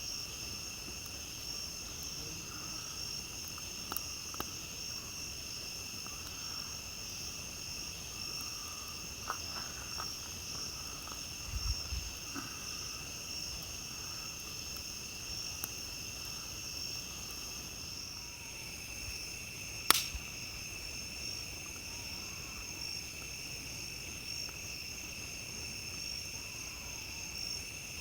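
A steady chorus of night insects chirring, with scattered sharp crackles and pops from a wood campfire, the loudest single pop about twenty seconds in.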